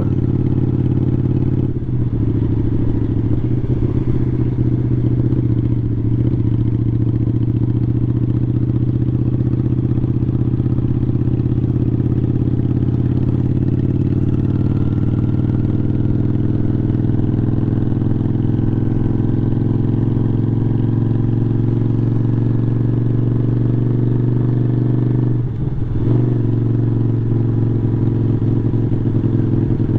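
Motorcycle engine running steadily at cruising speed under way, its note rising slightly through the middle and briefly dropping twice, about two seconds in and again near the end.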